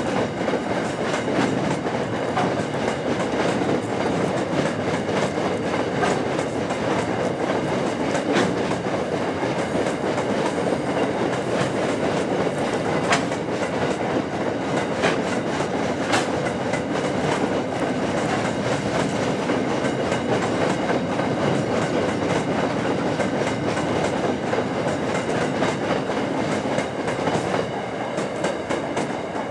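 Iron ore hopper wagons rolling past on the rails: a steady rumble of wheels with sharp clicks and clanks now and then, easing off near the end as the last wagon goes by.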